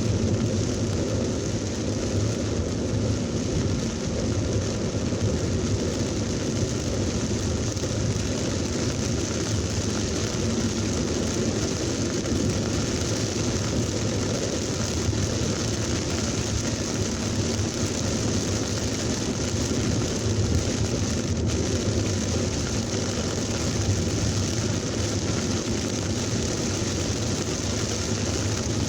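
Heavy thunderstorm rain as a steady hiss, with the low rumble of vehicles driving on the wet road.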